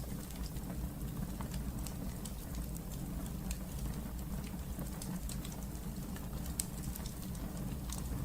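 Wood fire burning in a fireplace, a steady low rumble with irregular sharp crackles and pops, the loudest pop about six and a half seconds in.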